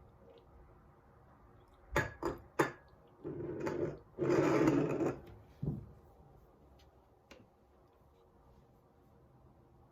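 Household objects being handled in a small room: three quick clicks or knocks, then two stretches of scraping or rubbing, the second louder, and a single knock.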